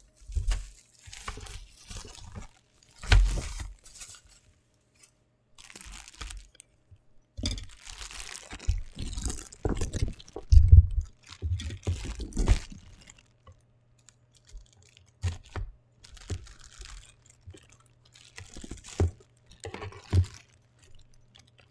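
A blind-box figure's packaging being opened by hand: it crinkles and tears in irregular bursts, with knocks and thumps as it is handled, the loudest about eleven seconds in.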